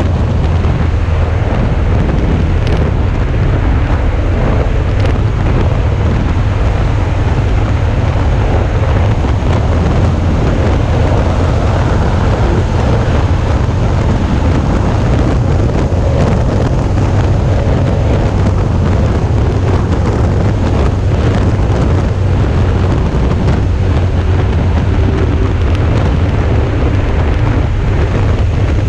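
Wind rushing over an action camera's microphone at riding speed, over the steady running of a Suzuki V-Strom 650's V-twin engine.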